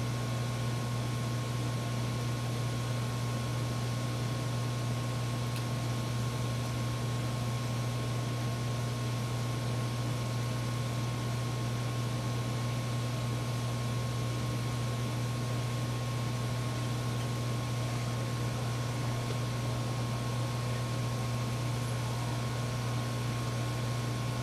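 Steady machine hum with an even hiss and a faint constant high tone, typical of a small fan or bench equipment running without change.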